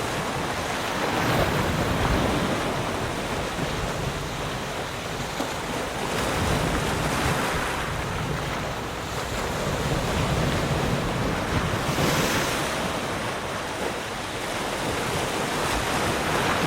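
Sea surf: waves breaking and washing up the shore in a continuous rush that swells and eases every four or five seconds.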